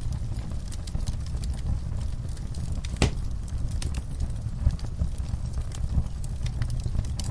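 Wood fire crackling in a fireplace: scattered sharp pops and snaps over a low steady rumble of the burning logs, with one louder snap about three seconds in.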